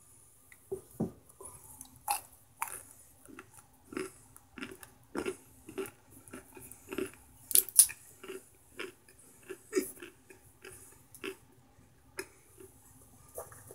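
Slow, crisp crunching of someone chewing a chunk of microwaved cornstarch: irregular sharp crunches about once or twice a second, the loudest about halfway through.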